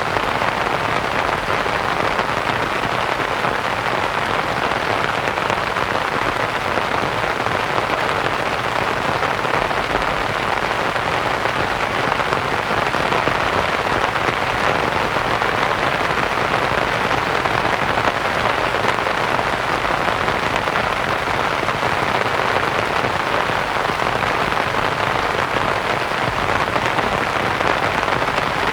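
Steady rain pattering on a canvas tent, blended with soft white noise into one even hiss that does not change.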